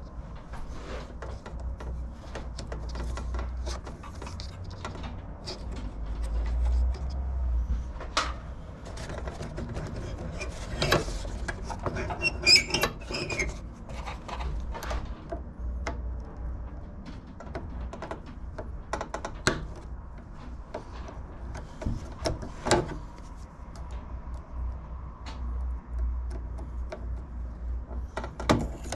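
Irregular knocks, clicks and clatter of hand tools and metal mower parts being handled during a repair, with a brief metallic ringing about twelve seconds in, over a low steady hum.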